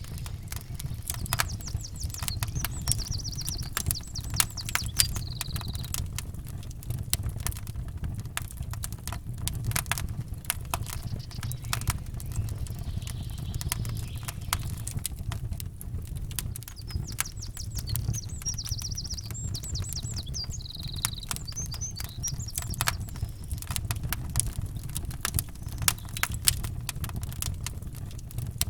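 Campfire crackling and popping in dense irregular snaps over a steady low rumble, with a songbird singing short rapid phrases twice, a couple of seconds in and again past the middle.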